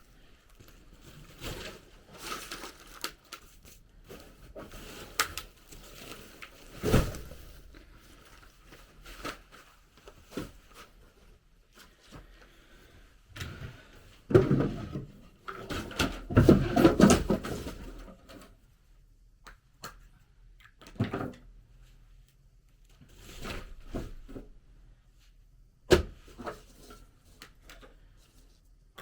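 Scattered knocks, clicks and rustling of objects being handled in a small room. A louder stretch of clattering comes about halfway through, and a single sharp knock comes near the end.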